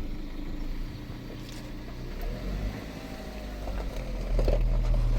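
A vehicle engine idling steadily, growing louder about four seconds in.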